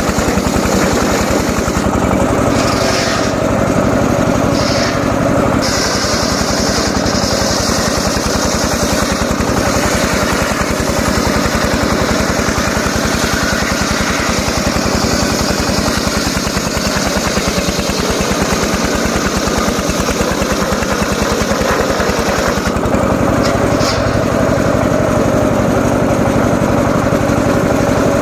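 Engine of a homemade circular saw rig running steadily under power, its pulses even throughout. The higher-pitched part of the sound shifts briefly a couple of seconds in and again near the end.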